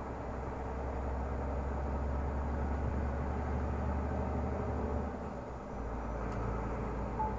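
Renault Magnum 480 truck's diesel engine running steadily under way. The low drone briefly drops in level about five seconds in and then carries on a little lower in pitch.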